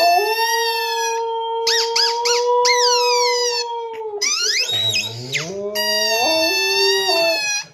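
Husky howling: one long, level howl lasting about four seconds, then a lower howl that climbs in pitch by steps. High-pitched squeaks that rise and fall in pitch sound alongside it.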